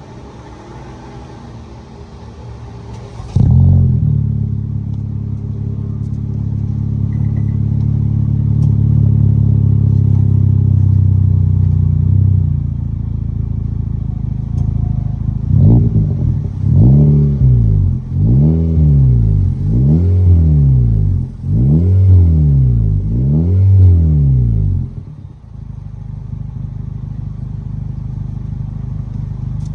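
Car engine heard through a Kakimoto Racing Regu aftermarket exhaust: it jumps in level about three seconds in and runs at a steady raised idle, settles lower, then is revved in a string of about seven quick throttle blips before dropping back to idle.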